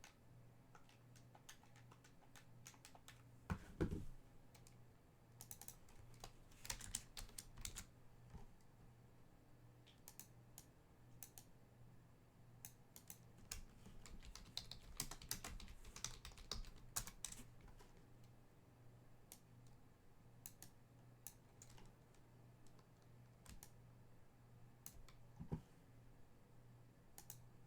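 Faint typing on a computer keyboard: scattered bursts of key clicks, with a louder knock about four seconds in and a steady faint hum underneath.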